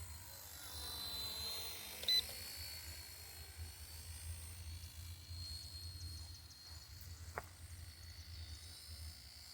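RC helicopter's high, steady motor whine, gliding in pitch over the first two seconds. A short sharp beep comes about two seconds in and a click about seven seconds in.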